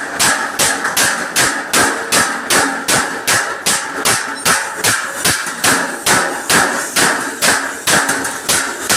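Hammer blows on a truck's front bumper, beating out a dent in a steady rhythm of about two to three strikes a second.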